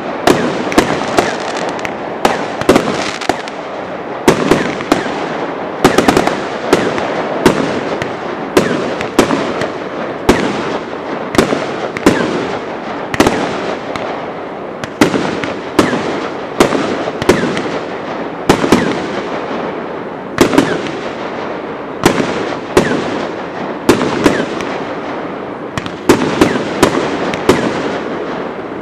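Fireworks display: sharp bangs of bursting shells, about one to two a second, over a continuous noisy wash of crackle.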